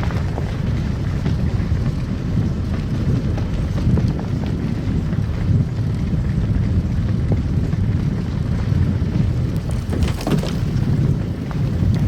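Car driving on a snow-covered road: a steady low rumble of tyres and engine, with a few brief knocks, the loudest about ten seconds in.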